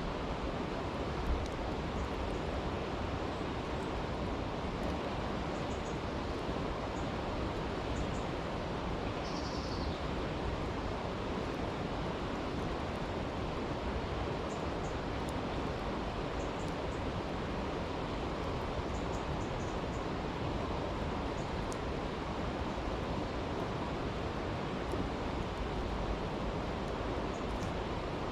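A brook rushing steadily, with a campfire crackling faintly now and then above it.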